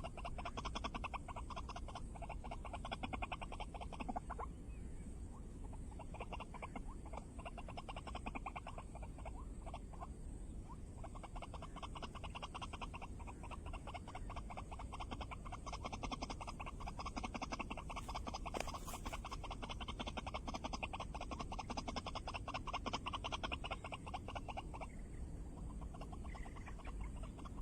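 White-breasted waterhen (ruak-ruak) calling: a long run of rapid, croaking notes, pausing briefly about four seconds in and again near the end.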